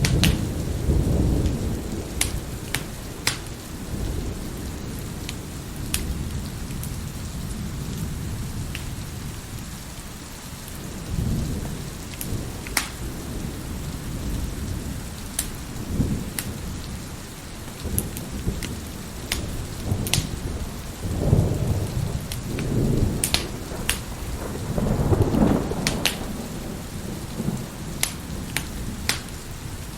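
Steady heavy rain with thunder rumbling, swelling near the start and twice more in the second half, mixed with a wood fire crackling in short sharp pops.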